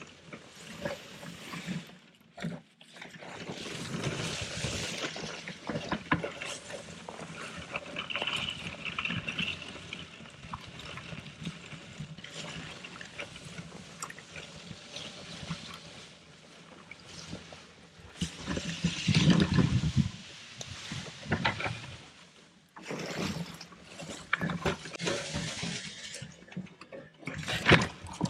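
Cut cedar brush and branches rustling and crackling as they are handled and hauled, with footsteps, in uneven bursts that are loudest a little past the middle and near the end.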